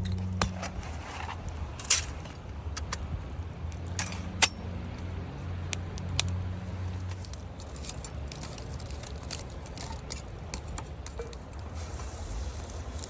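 A few sharp metallic clinks of cooking utensils against camp cookware, about two, four and four and a half seconds in, over a steady low hum.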